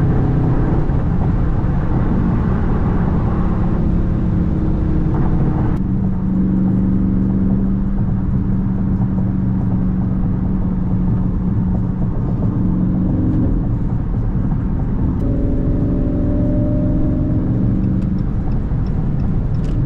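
Dodge Charger Scat Pack's 6.4-litre HEMI V8 running at a steady cruise. Its note holds one pitch for several seconds at a time and steps to a new pitch a few times.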